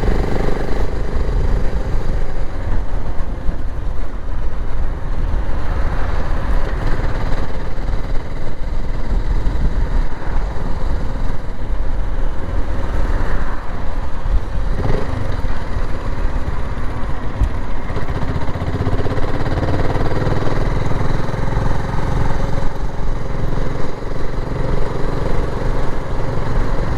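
BSA Gold Star 650's single-cylinder engine running while the bike is ridden along the road, its pitch shifting now and then with the throttle.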